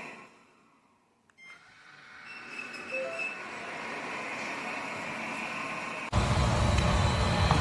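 Airzeen R7 robot vacuum's suction motor winding down to near silence, a click, then spinning back up with a few short beeps. About six seconds in it jumps abruptly to a much louder, deeper steady running.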